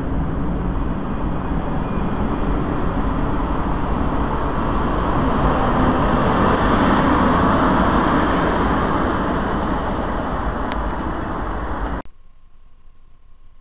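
Double-deck regional passenger train and its electric locomotive running out of an underground station: a steady rumble of wheels and traction noise, loudest as the locomotive passes, cutting off suddenly near the end.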